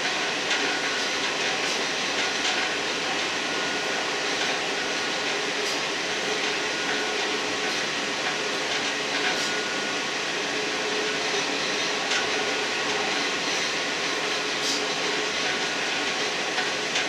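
Running noise of a British Rail Class 158-derived diesel multiple unit heard from inside the leading car: a steady engine and wheel-on-rail rumble with faint steady tones, broken by occasional sharp clicks.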